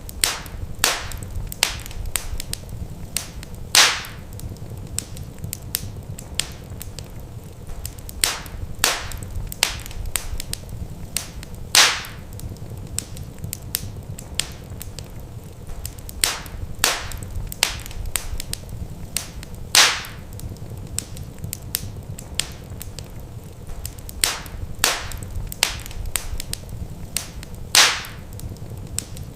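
Wood fire crackling in a fireplace: irregular sharp pops and snaps over a steady low rumble, with a louder pop about every eight seconds.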